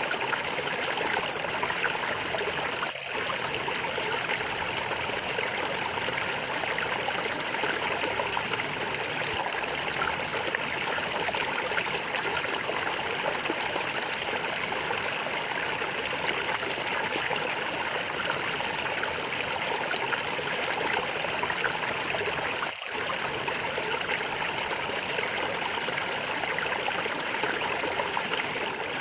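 A stream of water flowing and gurgling steadily, with two momentary dropouts in the sound.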